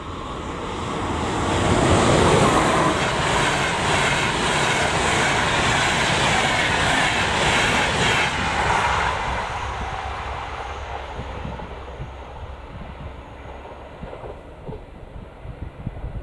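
Train passing at speed with wheel-on-rail noise. It builds to its loudest about two seconds in, holds for several seconds, then fades away.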